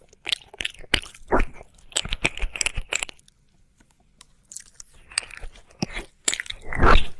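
Wet mouth sounds of ear licking close to the microphone: quick sticky clicks and smacks, pausing for about a second midway, with a longer, louder one near the end.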